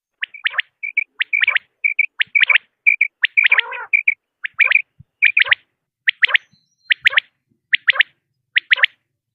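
Quail calling: sharp, repeated phrases of two or three quick notes, roughly one phrase a second. In the first half, short single whistled notes come between the phrases.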